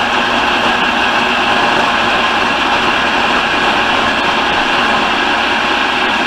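Food processor motor running steadily at speed, its blade cutting cold butter and lard into flour for pie crust.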